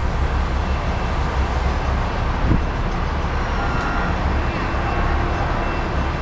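Commuter train running with a steady low rumble and rolling noise, with one brief knock about two and a half seconds in.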